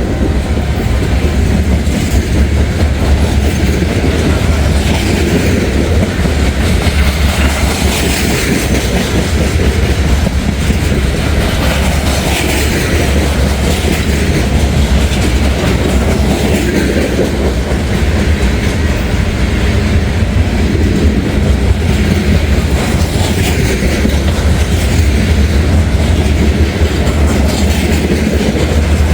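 CSX freight train's cars rolling past close by: a steady rumble with the clickety-clack of wheels over the rail joints.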